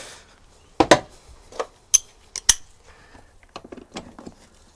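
Sharp metallic clinks and taps, about four in the first two and a half seconds, then a run of lighter clicks: new bolts and washers being handled and set in place by hand.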